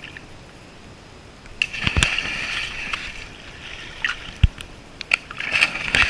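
Kayak paddling: water splashing and sloshing off the paddle blades in bursts, with a sharp knock about two seconds in and another past the middle.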